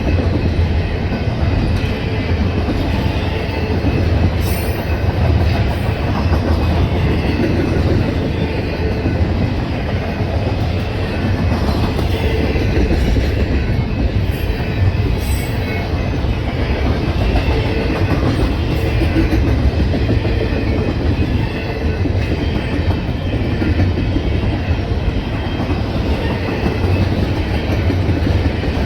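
A train passing at length, its cars running steadily over the rails.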